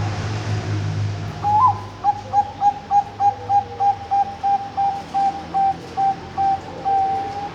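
Bangkok-strain zebra dove (perkutut) singing: an upward-sliding opening note, then a run of about fifteen short coos at one pitch, about three a second, ending on a longer held coo.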